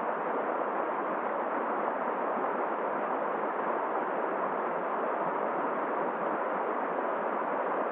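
Steady, even rushing of a flowing river mixed with winter wind, with no distinct events.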